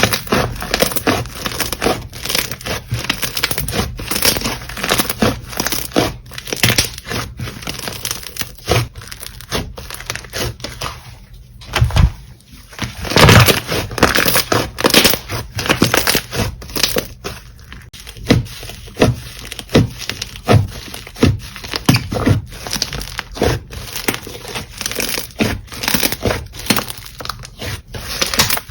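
Crunchy slime being squished and pressed by hand, giving a dense, irregular run of crackles and crunching pops, with a brief lull and then a couple of louder snaps a little under halfway through.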